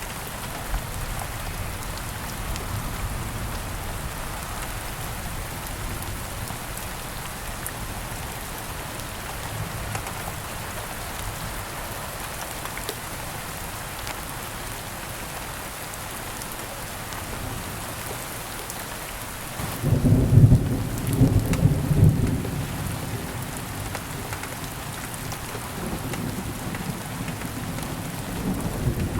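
Steady rain falling, with a loud low rumble of thunder about two-thirds of the way through that lasts a few seconds, and another softer rumble building near the end.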